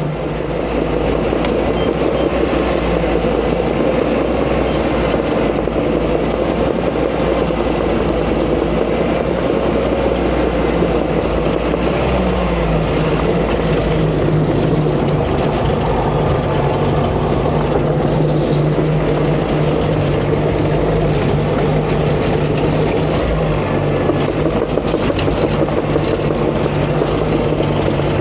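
Caterpillar D5 bulldozer's diesel engine running steadily under load while pushing dirt, its pitch rising briefly about twelve seconds in.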